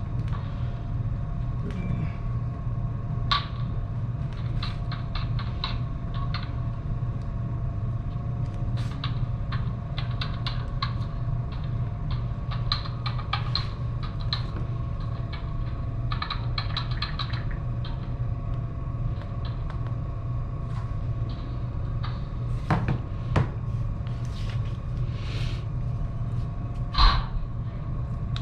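Semi-truck's diesel engine idling, heard from inside the cab as a steady low hum, with scattered light clicks and taps throughout and two louder knocks near the end.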